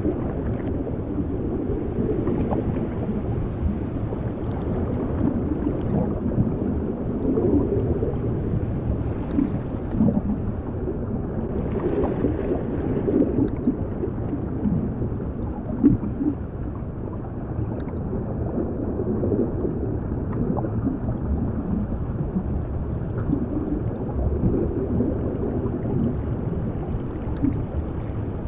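Muffled underwater ambience: a steady low rumble of water with scattered bubbling and gurgling, the level swelling and easing.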